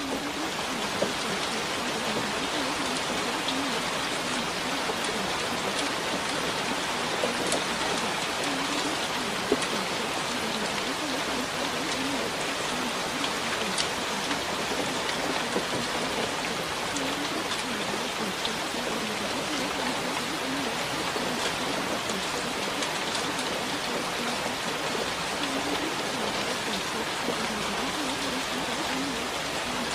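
Steady rain: a dense, even hiss of rainfall with scattered sharp ticks of single drops.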